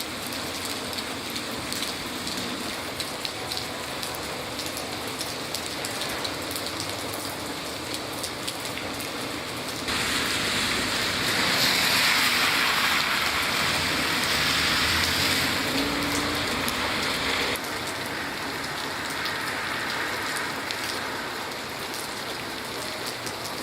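Rain falling steadily, with many small drops ticking. A louder, hissier rush of rain noise starts abruptly about ten seconds in and stops just as abruptly about seven seconds later.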